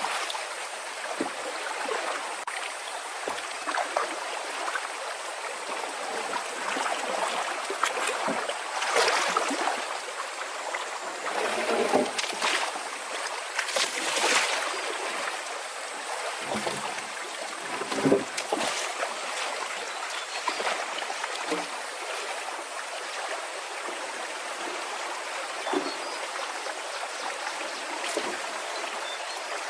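Steady rush of running water, like a stream, with a few louder splashes or knocks now and then.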